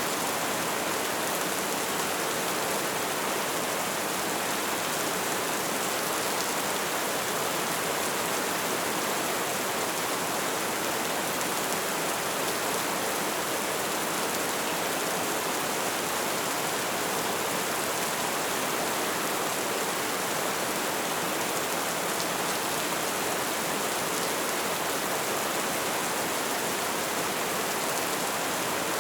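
Steady light rain falling: an even, unbroken hiss with no distinct drops standing out.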